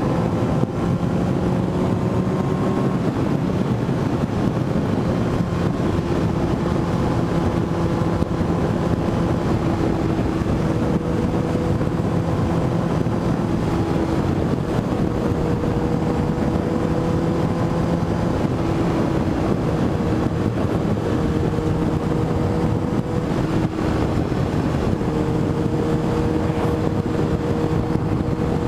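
Motorcycle engine running at a steady cruising speed, its note holding even, over a steady rush of wind and road noise.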